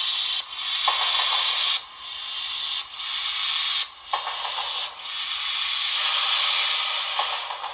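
Radio static hiss from a model locomotive's sound decoder playing its radio-chatter effect, broken by short dropouts about once a second, heard through the locomotive's small speaker.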